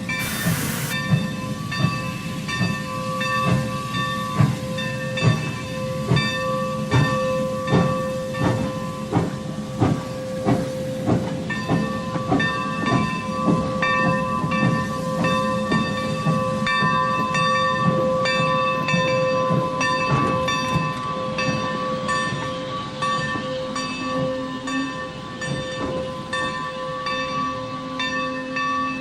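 Steam locomotive's cab bell ringing steadily, struck about once a second, over the slow rumble of the train rolling into the station. A short burst of steam hiss comes right at the start.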